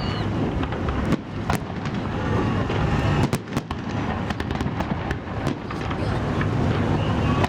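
Holiday fireworks salute: a dense low rumble of bursts, with many sharp cracks and pops scattered through it.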